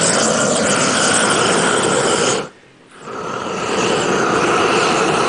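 Torch flame (the flamethrower) blowing steadily as it burns a cell phone; the noise drops away sharply about halfway through and builds back up within a second.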